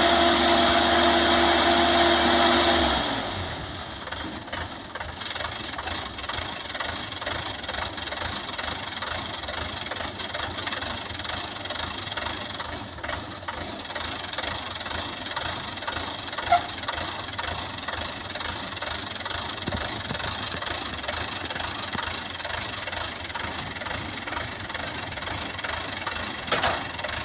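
Heavy machine's engine running at idle in a steady, even rumble. During the first three seconds a louder steady drone with several held tones sits on top of it, then drops away.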